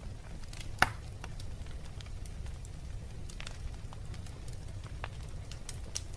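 Wood fire burning in a fireplace: a steady low rumble of flame with scattered crackles and pops, the loudest a sharp pop just under a second in.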